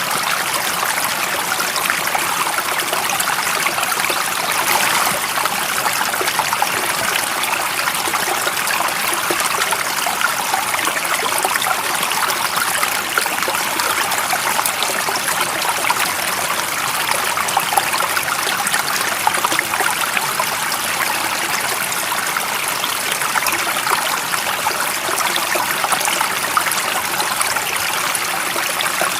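Stream water running over stones, a steady, dense rush with fine splashing and trickling.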